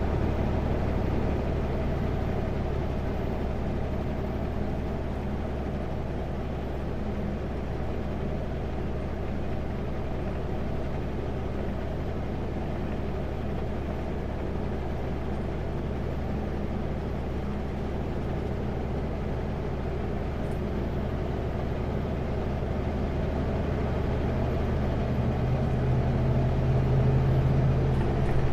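Kenworth W900L semi truck's diesel engine running steadily at highway speed, heard from inside the cab with road noise. The engine note grows louder over the last few seconds.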